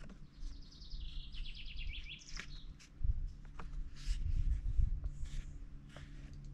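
A songbird sings one rapid trilled phrase of about two seconds, its notes stepping down in pitch and ending with a short flourish. Under it runs a steady low rumble, with a few faint clicks later on.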